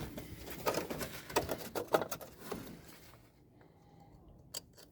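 Hands fitting plastic fuel-line and wiring connectors back onto a truck's fuel pump: a quick run of small clicks and rustles, then quieter, with one sharp click near the end.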